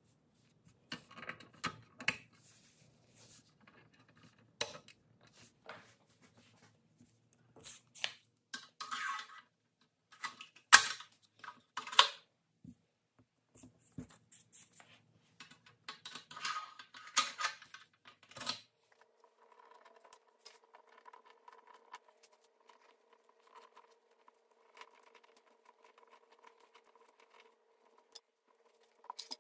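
Toy truck parts being handled on a towel-covered bench: plastic wheels and small metal hubcaps and fittings click and knock in scattered bursts. About two-thirds of the way in, the handling stops and a faint steady hum is left.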